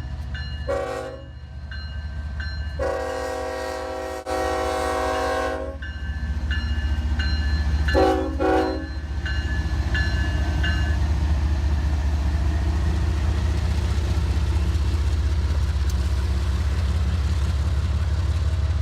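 A locomotive air horn sounds a short blast, a long blast, then two quick short blasts. A bell dings steadily through the first half, and a heavy diesel rumble builds and holds as the train passes.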